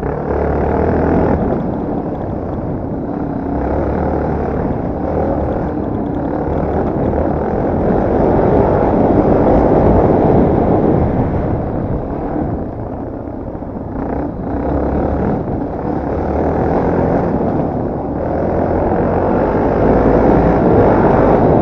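Yamaha TT250R trail bike's single-cylinder four-stroke engine running under way, its level rising and falling with the throttle.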